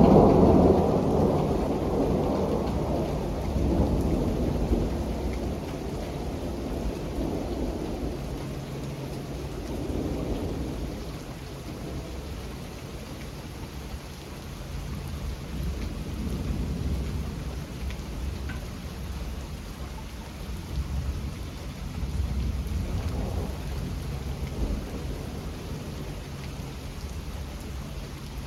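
Steady rain falling through a thunderstorm. A loud roll of thunder swells right at the start and rumbles away over several seconds, and fainter rumbles follow every few seconds.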